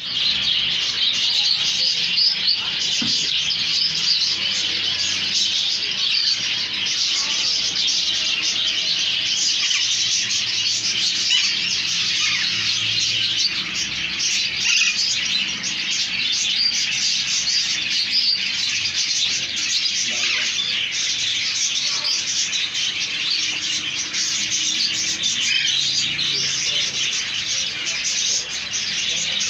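Many Alexandrine parakeets chirping and chattering at once in a dense, unbroken chorus of high, shrill calls.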